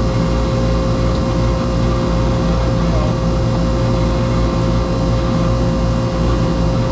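Steady mechanical drone with a constant low hum and a thin steady tone running through it.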